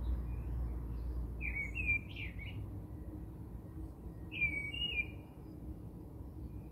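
A bird chirping in two short warbled phrases, one about a second and a half in and one about four seconds in.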